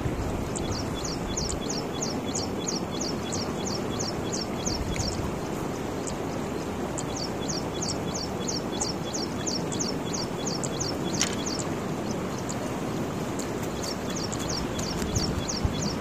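A bird calls in quick series, short high falling chirps about three a second, with two breaks of a couple of seconds, over a steady outdoor rushing noise.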